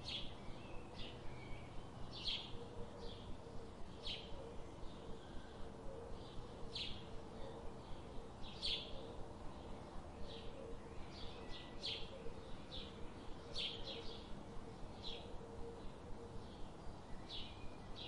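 Birds chirping: short, high chirps repeating every half second to a second over faint steady background noise.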